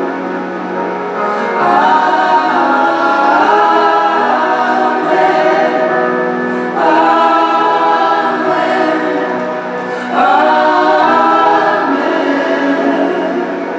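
Choir singing gospel music in long held chords, with new phrases coming in about two, seven and ten seconds in.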